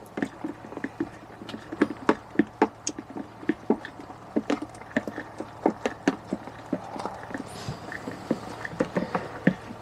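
A spoon stirring gravy in a jug, clinking irregularly against its sides a few times a second.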